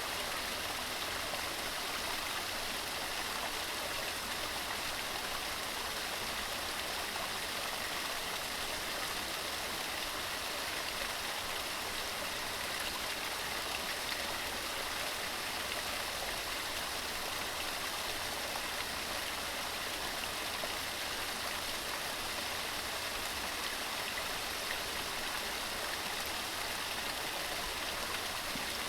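Waterfall: water tumbling over rocks, a steady, even rushing hiss with little low rumble that does not change.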